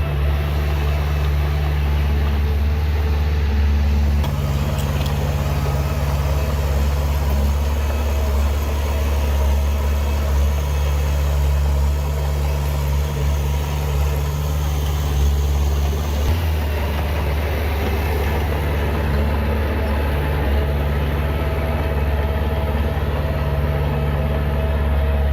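Heavy earthmoving machinery's diesel engine running steadily at a low, even pitch.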